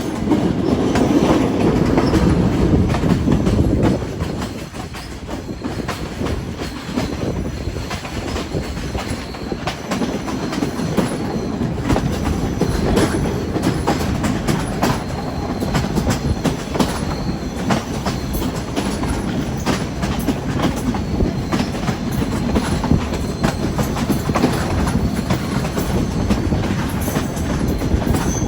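Train running along the track, heard from on board: a steady rumble with the wheels clacking over rail joints, a little louder for the first few seconds.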